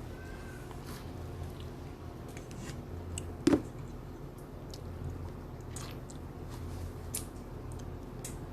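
Close-up eating sounds: chewing and biting with small wet clicks, over a steady low hum. One louder knock about three and a half seconds in.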